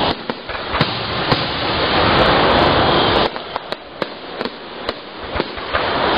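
Aerial fireworks shells bursting in a rapid, irregular series of sharp bangs. Under them a loud rushing noise swells and cuts off abruptly about three seconds in.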